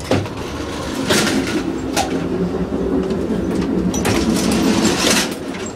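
Amtrak double-decker passenger train running: a sharp click, then rumbling and rattling with a steady low hum. The noise grows louder from about a second in and eases near the end.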